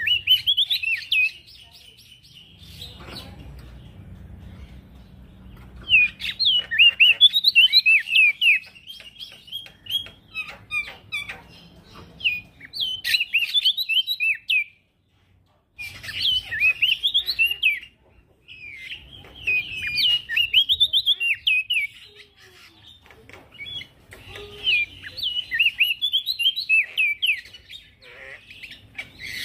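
Male prenjak daun singing in an energetic, fast song: rapid runs of sharp, chattering high notes in several bouts separated by short pauses.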